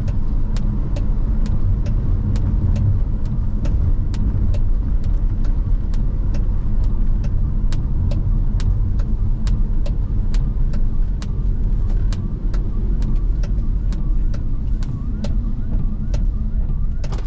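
Car cabin sound: a steady low engine and road rumble with a sharp, even ticking about twice a second, the car's indicator (turn-signal or hazard) relay ticking.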